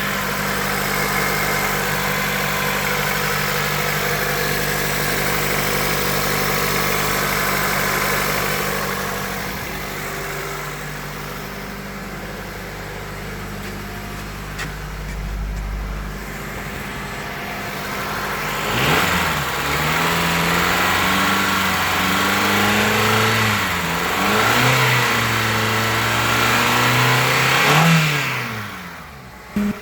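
2003 Honda Accord engine on a run test, idling steadily, then revved up and down several times in the second half. The sound dies away near the end.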